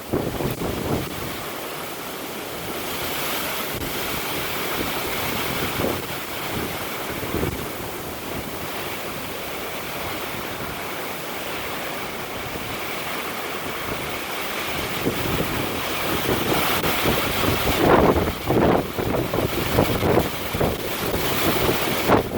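Gusty wind rushing and buffeting the microphone, with stronger low rumbling gusts in the last several seconds.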